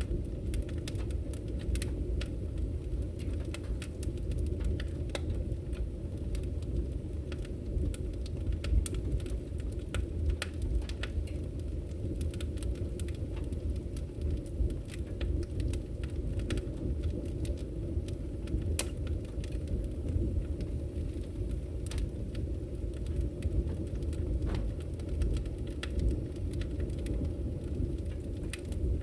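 Wood fire burning in a fireplace: a steady low rumble with frequent, irregular sharp crackles.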